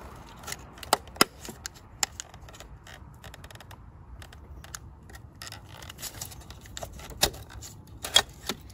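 Scattered sharp clicks and rattles of a plastic wiring-harness connector being unplugged and worked loose by hand, in a few clusters with quiet gaps between.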